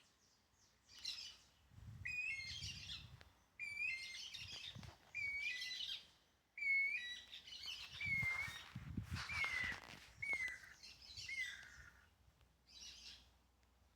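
Songbirds singing: phrase after phrase every second or two, each a short dipping whistle followed by quick chattering notes, denser and louder in the middle and thinning toward the end.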